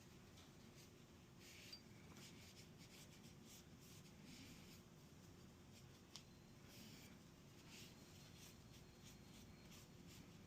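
Faint rubbing and handling of CZ Shadow 2 pistol parts during disassembly, with two small sharp clicks, one near the start and one about midway, over a low steady hum.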